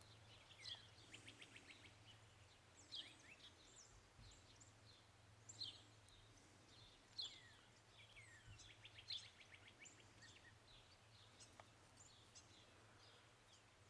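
Faint songbirds calling: scattered high chirps, quick rattling trills and short down-slurred whistles, over a faint low background hum.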